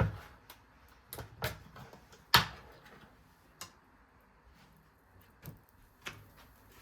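Scattered light knocks and clicks of things being handled in a kitchen: about seven separate taps, the loudest a sharp knock a little past two seconds in.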